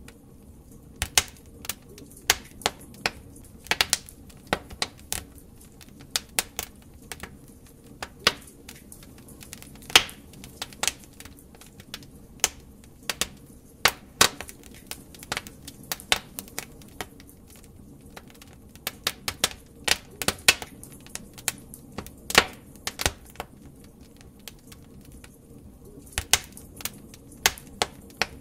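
Logs burning in a fireplace, crackling: irregular sharp pops and snaps over a low steady hiss of the fire.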